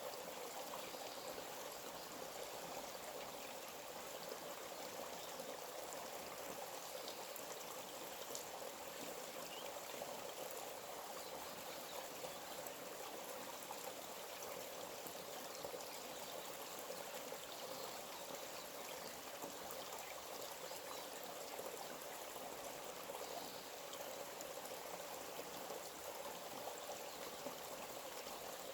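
A stream of water running steadily, an even, unbroken wash of flowing water.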